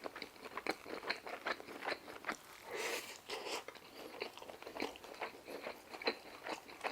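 Close-up chewing of crispy deep-fried General Tso chicken: a steady run of small, sharp crunches with a louder, rougher crunch about three seconds in.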